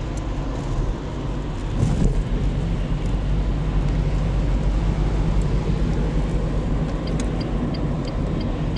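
A car driving along at steady speed: a continuous low engine and tyre drone, with one brief louder thump about two seconds in.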